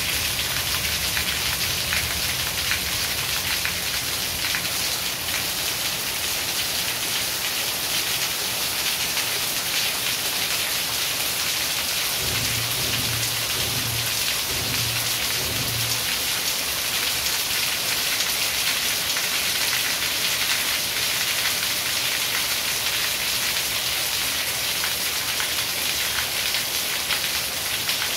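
Steady rain falling on garden plants and roofs, an even hiss of many drops. A low rumble comes in for a few seconds around the middle.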